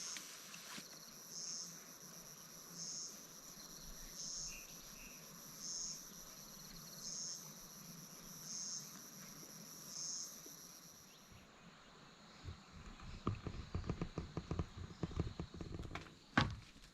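Forest insects calling: a high chirp that pulses about every second and a half over a steady high buzz, both stopping about eleven seconds in. Then a few seconds of irregular rustling, crunching footsteps on the forest floor, with a sharp click near the end.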